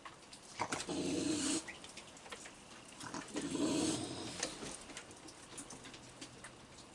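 Raccoons vocalizing at close range while being fed, in two short, harsh, noisy outbursts: one about a second in and another at about three seconds.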